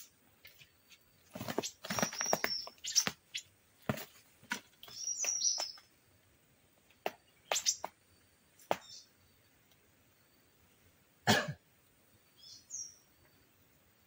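Small birds giving short, scattered chirping calls, with gaps of quiet between them and a few sharp clicks or knocks.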